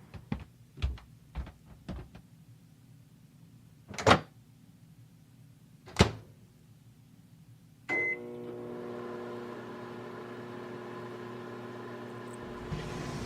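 A few light taps, then two sharp clunks about two seconds apart; about eight seconds in, a short beep and a microwave oven starts running with a steady hum.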